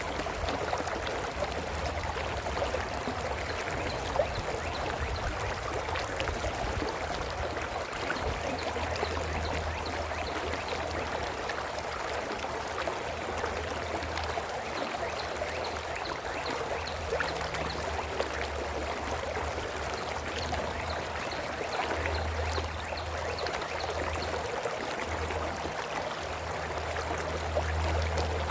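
A brook flowing steadily, an even rushing and trickling of water. A low rumble comes and goes underneath.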